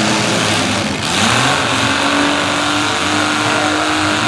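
Several demolition derby midsize cars' engines revving together under load. Their pitches rise and fall over a steady, loud noise.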